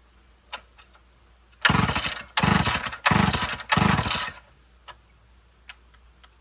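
Homelite XL two-stroke chainsaw being pull-started: four quick yanks of the recoil starter spin the engine over without it catching, with small handling clicks before and after. The engine won't fire, which the owner thinks is from a badly flooded spark plug.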